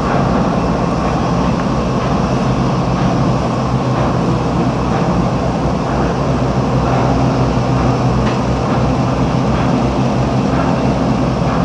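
A steady low mechanical rumble with a constant hum and a few faint knocks.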